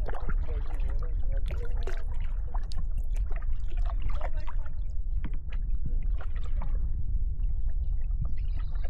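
Kayak paddle dipping and water splashing and dripping in short, irregular clicks over a steady low wind rumble on the microphone. Just before the end a canyon wren starts its descending cascade of high notes.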